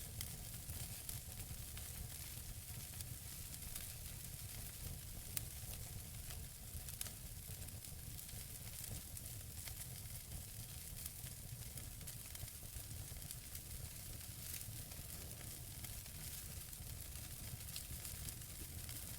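Logs burning in a wood fireplace: a steady hiss and low rumble with scattered sharp crackles, one louder pop about five seconds in.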